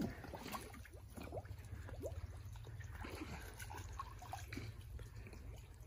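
Faint water trickling and small splashes, a scatter of little drips and plops.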